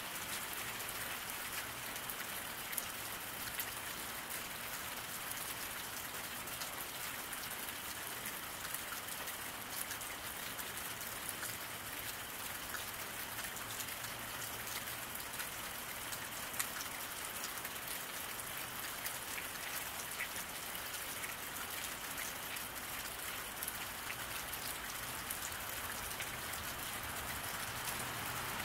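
Steady rain falling on a road, an even hiss with scattered single drop taps.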